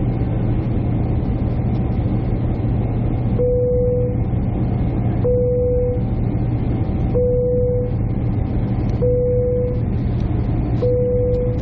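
Steady airliner cabin noise from the engines and airflow, with a strong low hum. Over it, a short single-pitch beep sounds five times, about two seconds apart, starting a few seconds in.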